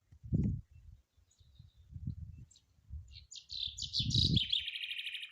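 A small bird calling in a rapid chirping trill over the last two seconds, its notes stepping down in pitch near the end, after a few low thumps.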